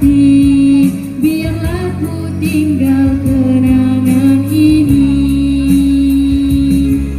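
A song: a singer holding long notes over instrumental backing.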